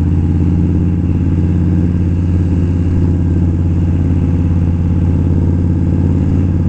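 Indian Scout V-twin motorcycle engine running at a steady, even pace while riding, with no revving.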